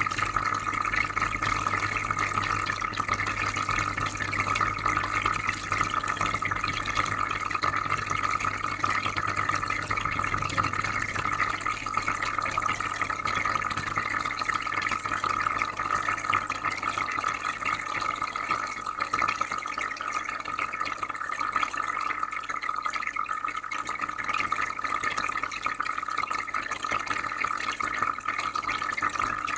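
Aquarium filter running: steady trickling and bubbling water with a low hum underneath.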